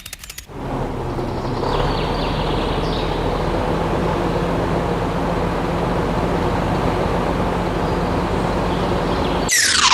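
Steady mechanical running noise, a motor or engine sound with a low hum, starting about half a second in. Near the end a quick falling whistle-like sweep, then the sound cuts off.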